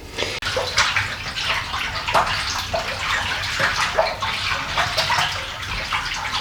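Water splashing and running, an irregular, continuous wet noise that stops at the end.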